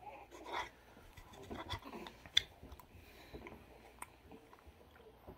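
A person chewing a bite of strawberry rhubarb pie, faint soft mouth sounds with scattered small clicks, one sharper click about two and a half seconds in.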